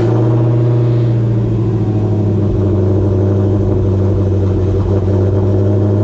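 Car engine idling steadily just after starting, an even drone that holds the same pitch throughout.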